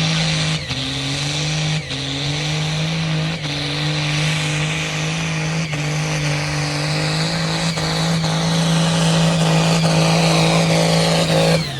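Pulling tractor's engine running hard at high revs under load, with a few brief dips in pitch, then shut off sharply near the end as the throttle closes. A high whine falls away after the cut.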